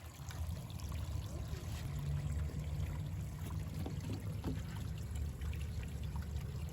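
Water trickling steadily in a small backyard recreational stream, over a heavier low rumble.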